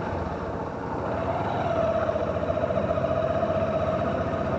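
Motorcycle engine pulling away, its note rising about a second in and then holding steady.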